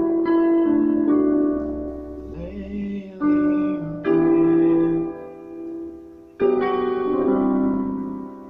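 Piano playing slow chords in the key of G: six chords struck in turn, each left to ring and die away before the next.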